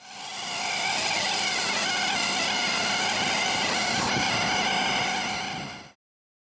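Air-driven vane motor of a gas line reamer running steadily at high speed: a dense whine with many steady pitches over hiss. It fades in and fades out just before the end.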